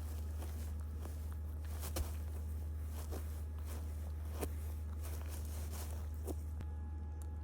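A few faint, soft, scattered taps over a steady low hum.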